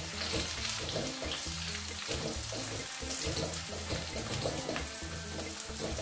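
Garlic, shallots, ginger and galangal sizzling in hot oil in a pan, a steady hiss, under background music.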